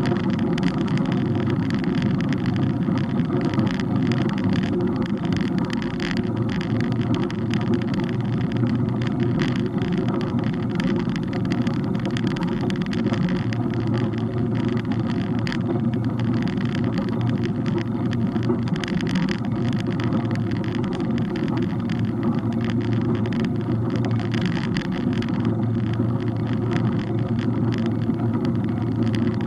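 Steady low rumble of wind and road noise from a camera carried on a moving bike, with many small rattles and knocks throughout.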